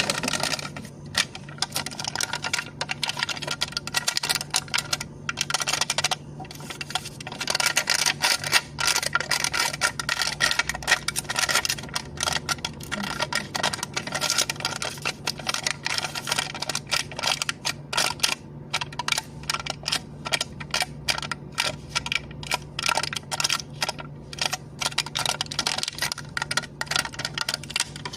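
Rapid, continuous light tapping and clicking on a cup lid, many taps a second, over a steady low hum.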